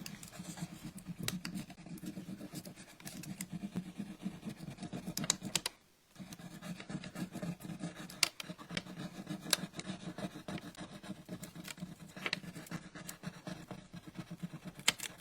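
Rubbing stick scrubbed quickly back and forth over a gold foil transfer sheet, burnishing the foil onto a sign. It makes a fast, dry scratching that stops briefly about six seconds in.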